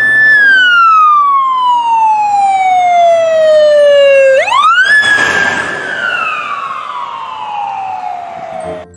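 An emergency vehicle siren wailing twice. Each time the pitch holds high and then slides slowly down for about four seconds. Midway it shoots quickly back up before the second slow fall, and it cuts off just before the end.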